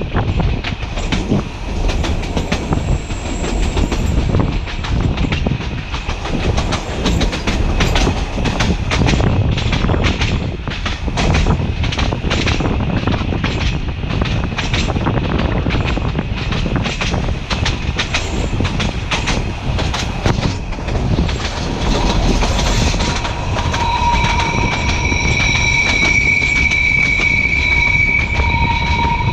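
A narrow-gauge passenger train running on 760 mm track: a steady rumble with the clickety-clack of wheels over rail joints. Near the end a steady high-pitched wheel squeal joins in.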